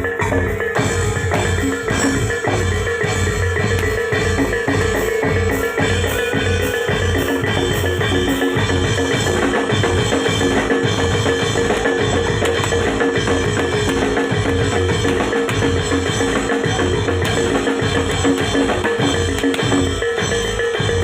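Javanese traditional ensemble music for a Singo Kubro reog dance: drums beating a steady, driving rhythm under metal mallet instruments and a long held tone.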